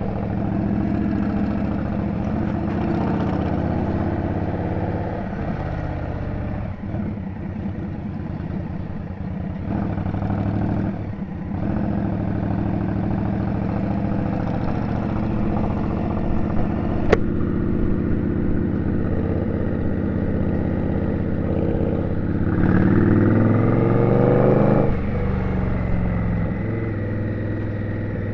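Indian Scout V-twin motorcycle engine running steadily in city traffic, then revving with a rising pitch for a few seconds near the end as it accelerates. A single sharp click sounds midway.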